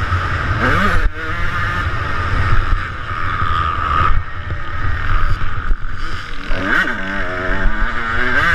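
Two-stroke motocross bike engine revving up and down as the rider works the throttle and shifts, with sharp pitch swings about a second in and again near the end. Heavy wind rumble on the camera microphone runs under it.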